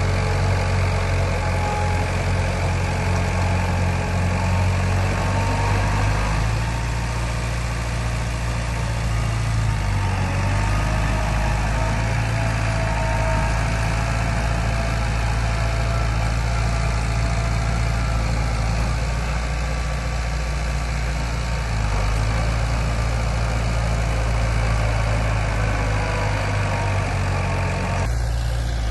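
Heavy construction machinery's diesel engine running steadily: a low drone with faint whines above it that slowly rise and fall in pitch.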